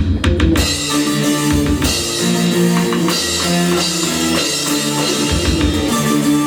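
Live rock band playing a song on drum kit, bass and electric guitar, coming in about half a second in after a couple of sharp knocks.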